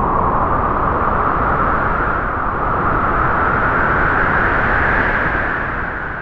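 A strong gust of wind blowing, its rushing whistle rising slowly in pitch, then dying away near the end.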